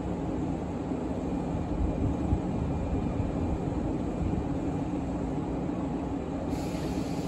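Steady low rumble of a train at a railway station.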